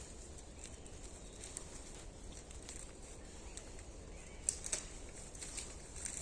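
Quiet forest background with a few faint, short clicks about four and a half seconds in.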